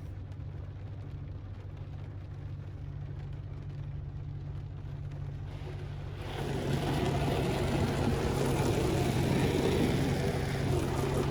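1996 Ford Thunderbird's 4.6-litre V8 idling steadily, heard from inside the car as a low, even hum. About six seconds in, a steady hiss joins it and the overall sound gets louder.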